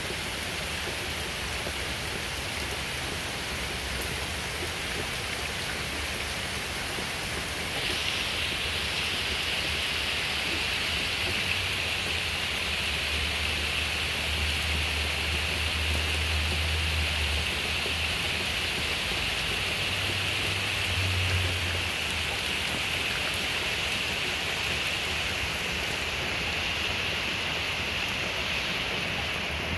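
Steady rain falling on trees and a leaf-covered yard. About eight seconds in the hiss grows brighter and stays so, and a low rumble swells and fades in the middle.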